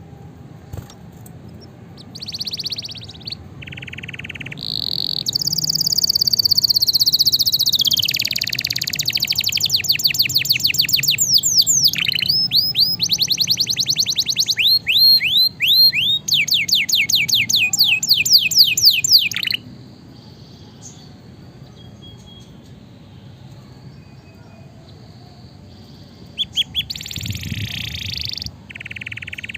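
Domestic canary singing a long, loud song made of fast trills, each a run of rapidly repeated high sweeping notes at changing speeds. The song breaks off about two-thirds of the way through and starts again near the end.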